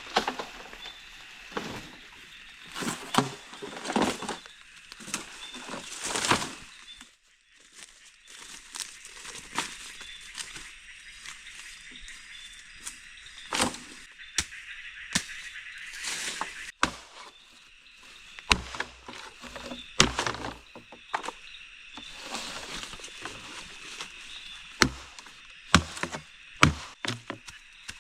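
Irregular sharp knocks and heavier thunks, some quick runs of several, over a steady high-pitched background chorus.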